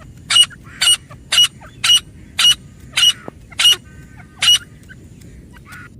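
Female grey francolin calling: a run of eight short, sharp, high-pitched calls about half a second apart, the last after a slightly longer pause.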